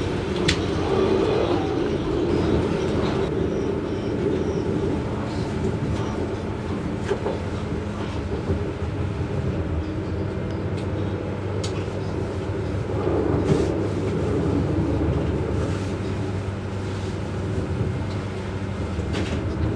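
Running noise heard inside a diesel regional train carriage: a steady rumble of wheels on rails under an engine drone, with a few sharp clicks from the track.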